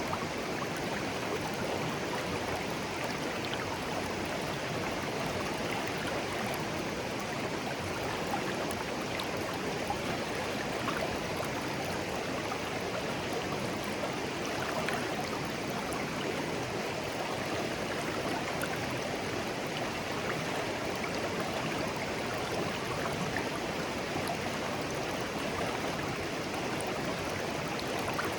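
Shallow stream babbling steadily over stones, a constant rush of water with small splashes and gurgles.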